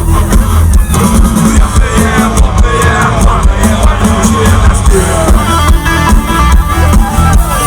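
Loud rock music: a band with drum kit playing an instrumental passage between sung lines.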